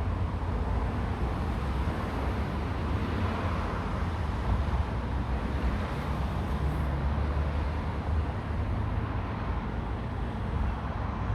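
Road traffic: a steady rumble of cars passing, swelling and easing a little.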